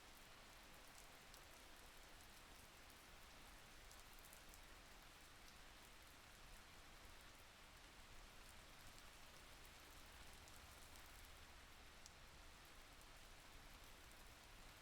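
Faint, steady rain: an even hiss with scattered light ticks of drops.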